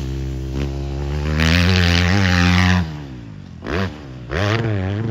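Dirt bike engine revving: it runs steadily, is held at high revs for over a second, drops back, then gets two short blips of the throttle before settling.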